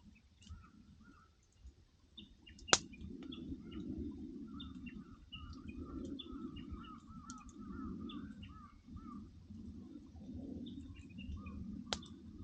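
Wood fire burning with a low, steady rumble, snapping sharply twice: loudly about three seconds in and again near the end. Behind it, short high chirping calls repeat rapidly through much of the time.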